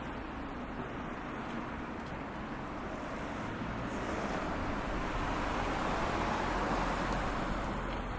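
A vehicle passing by: a noisy road sound with a low rumble swells to a peak about six seconds in, then begins to fade.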